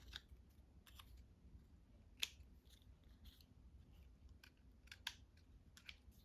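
Faint, scattered snips and clicks of small scissors cutting paper, loudest about two seconds in and again about five seconds in.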